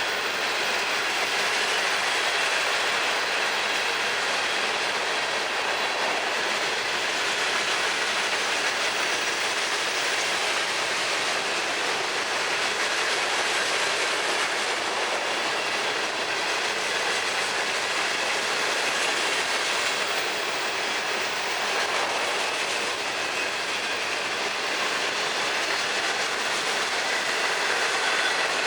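Long freight train rolling past, its cars' wheels running on the rails in a steady, unbroken clatter.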